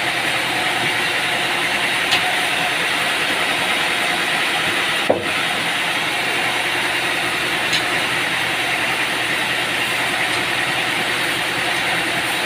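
Machinery running steadily with a constant hum, broken by a few short clicks or knocks, the loudest about five seconds in.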